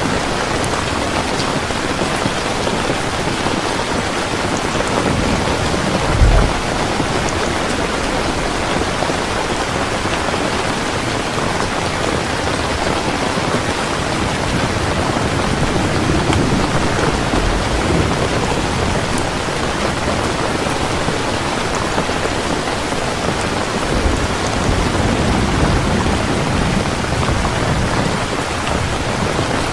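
Heavy rain pouring steadily, with low thunder rumbling several times: a short strong rumble about six seconds in, another past the middle, and a longer one near the end.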